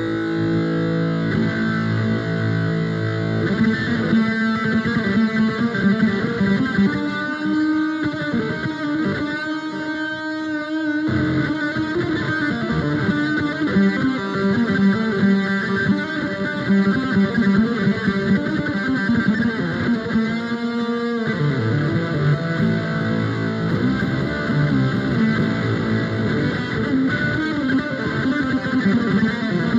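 Instrumental electric guitar music of plucked notes and chords with sustained tones. The low end drops out briefly twice, about ten and twenty-one seconds in.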